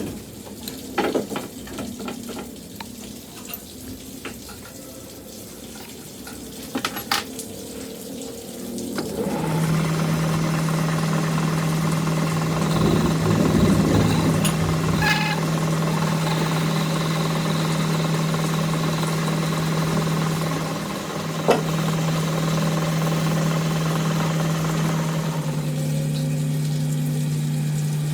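A few light clicks and knocks, then about nine seconds in a machine motor starts and runs with a steady, even hum.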